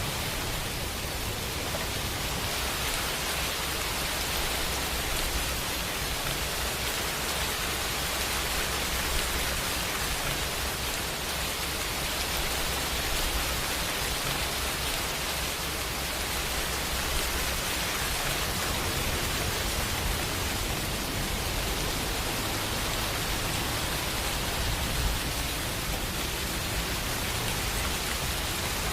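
Steady rain falling, an even hiss with a few brief louder spots.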